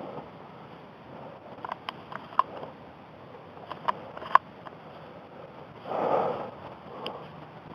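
A handful of sharp, separate clicks over soft rustling, with a brief louder rush of rustle about six seconds in.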